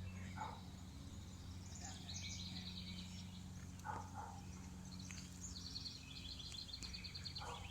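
Birds singing, with two fast high trills and a few short lower calls over a steady low hum.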